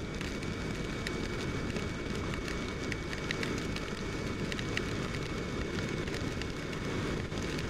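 Steady wind and road noise from riding a KTM RC motorcycle through heavy rain, with scattered sharp ticks of raindrops striking the camera.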